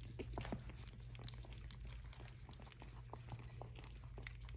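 Shih Tzu puppies about three and a half weeks old licking and smacking at soft puppy mush: faint, quick wet clicks throughout, with a couple of tiny squeaks near the start.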